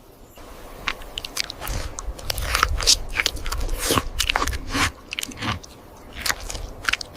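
Irregular crunching and cracking, densest from about two to five seconds in, over a low rumble.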